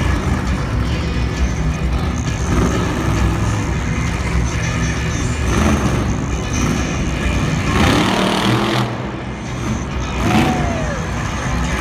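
Loud monster truck engines running, with a steady low rumble and surges of noise.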